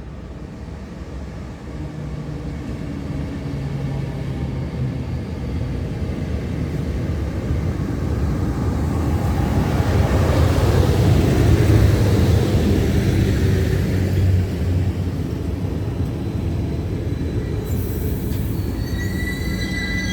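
Passenger train hauled by an EP09 electric locomotive approaching and passing: a rolling rumble and rush that builds to a peak about halfway through, then stays steady. High-pitched wheel squeal starts near the end.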